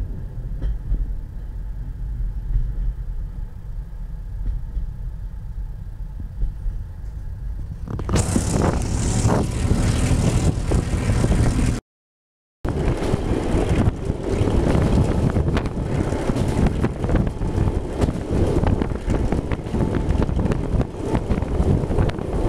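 Moving passenger train heard from on board: a low rumble at first, then, about a third of the way in, much louder rushing wind and rattling track noise. The sound cuts out completely for under a second near the middle, then the rushing and rattling carry on.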